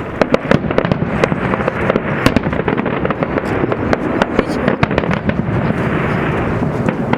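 Aerial fireworks display: rapid, dense crackling and popping from many shells bursting at once, over a continuous rumble.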